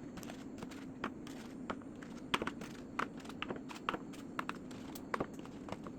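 Eggs being handled and set down, their shells making irregular light clicks and taps, two or three a second, over a steady low hum.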